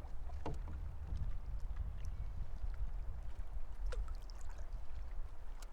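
Canoe on the water: faint paddle splashes and light knocks against the hull every second or two, over a steady low rumble of wind on the microphone.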